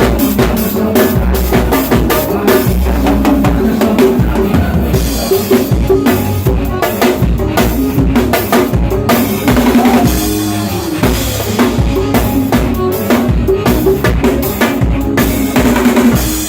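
Drum kit played along with a recorded song: kick drum and snare strikes keep a busy, steady beat over the backing music.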